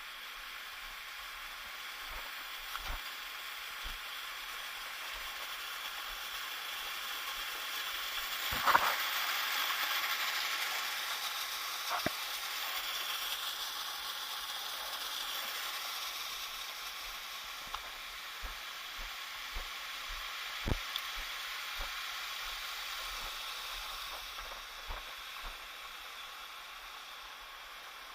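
Waterfall water rushing as a steady hiss that swells and then fades a little, with scattered light clicks and taps over it.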